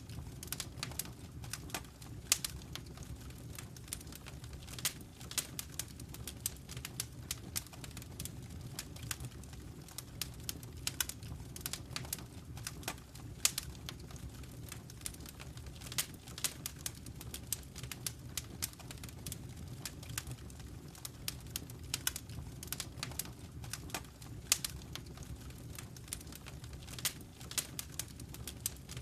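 Wood fire in a fireplace crackling: irregular sharp pops and snaps, several a second, over a steady low drone.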